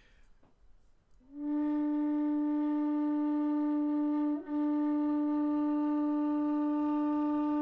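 Kerry Low D whistle sounding its bottom D, the bell note, held long and steady with rich overtones. It starts over a second in and breaks briefly about halfway before the note goes on.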